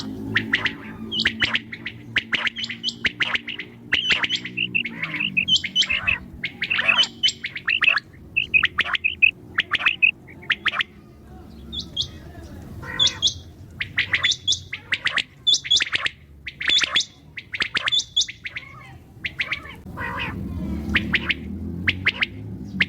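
Common quail calling: a rapid, uneven series of short, sharp chirping calls, with a low hum underneath at the start and again near the end.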